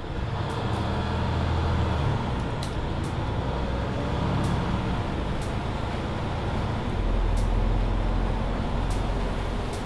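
Mercedes-Benz Citaro C2 hybrid city bus under way: its diesel engine and drivetrain run steadily, the engine note shifting every few seconds as load and speed change and swelling about seven seconds in. Light ticks and rattles come through now and then.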